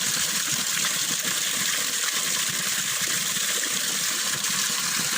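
Small waterfall: steady rushing of falling water.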